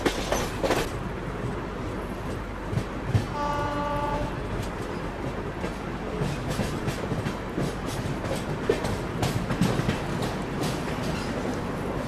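Passenger train running along the track, wheels clattering over rail joints and points. A train horn sounds once for about a second, a few seconds in.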